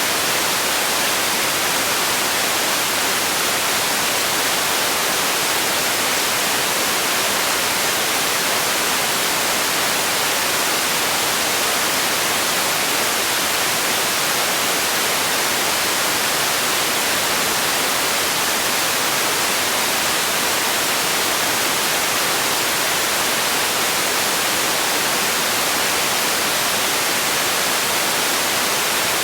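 Steady, unchanging hiss of relaxation noise, bright and airy with little bass.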